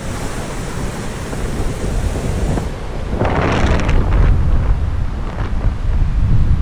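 Strong wind buffeting the microphone with a deep, steady rumble over the noise of a rough, stormy sea. About three seconds in, a louder rush of surf swells up.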